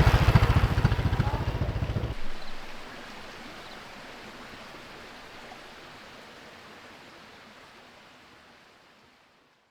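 A small engine chugging in a fast, even rhythm, which cuts off about two seconds in. A steady rushing hiss follows and fades away to nothing.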